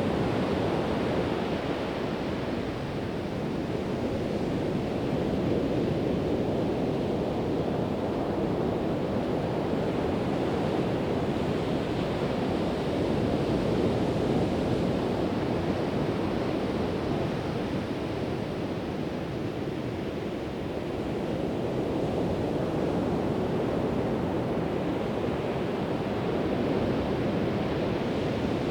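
Pacific Ocean surf: a continuous rush of breaking waves that swells and eases slowly every several seconds, with some wind noise on the microphone.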